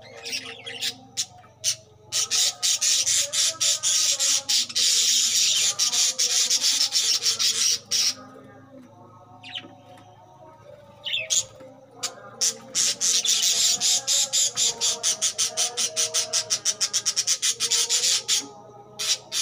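A flock of budgerigars chattering and squawking: two long, loud spells of rapid, dense chatter close by, with quieter stretches of scattered calls between them.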